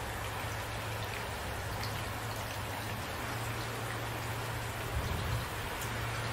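Steady rain falling in an even hiss, with a low steady rumble underneath and two soft low thumps about five seconds in.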